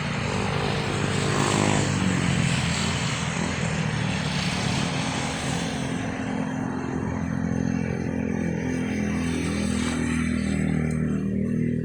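An engine running steadily, its pitch drifting slightly up and down over a rushing noise that thins out in the higher range near the end.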